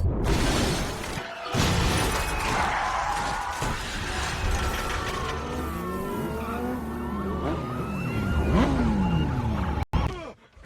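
Movie car-crash sound effects: smashing glass and crashing metal over loud film score. Wailing tones slide up and down in the middle, and everything cuts off abruptly near the end.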